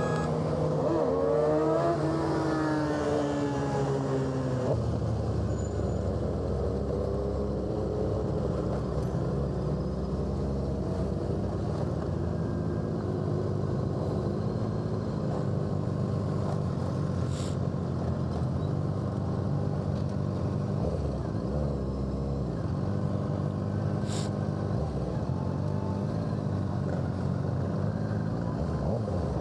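Suzuki GSX-R600's inline-four with an M4 exhaust, revs climbing and dropping back through gear changes in the first few seconds. It then settles into a steady cruise with wind noise on the mic.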